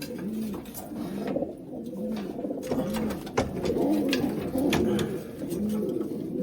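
Several racing pigeons cooing, their overlapping calls repeating about twice a second and getting busier after about halfway through, with a few sharp clicks among them.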